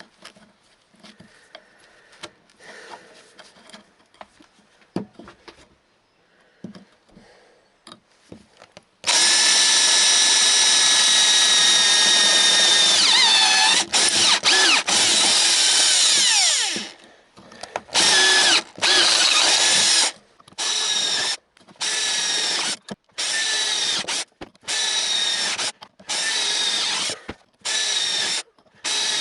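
Faint handling clatter, then an electric drill runs at a steady whine for about eight seconds, its pitch sagging briefly under load. It is followed by a string of short trigger bursts about a second each.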